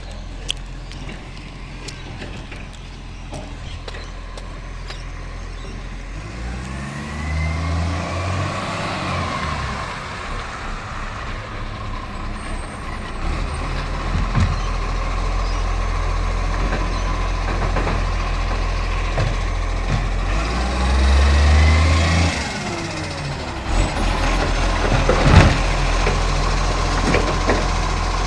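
A garbage truck's diesel engine runs steadily and revs up and back down twice, about a quarter and three-quarters of the way through, as it works its bin-lifting hydraulics on a green-waste pickup. A sharp clank sounds a few seconds before the end.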